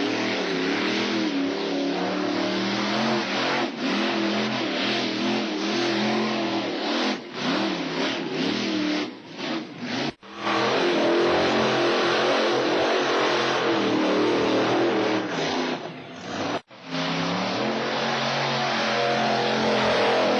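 Monster truck engine running loud and revving, its pitch rising and falling. The sound breaks off abruptly twice, about ten seconds in and again near seventeen seconds.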